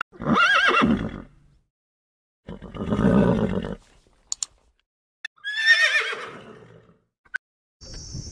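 Horses whinnying: three separate neighs about a second long each, the last starting high and falling away, with a few short clicks between them.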